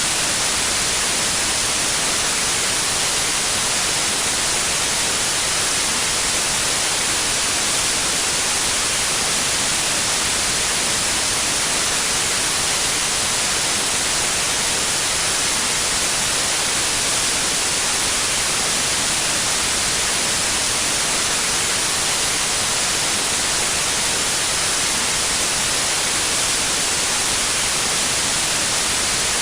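Steady, unbroken white noise: an even hiss with most of its energy in the upper range and no change or events.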